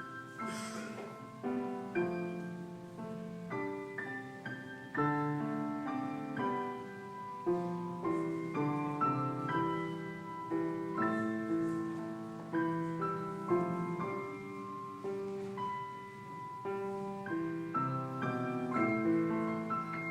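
Solo piano playing a slow, gentle piece, notes and chords struck one after another and left to ring.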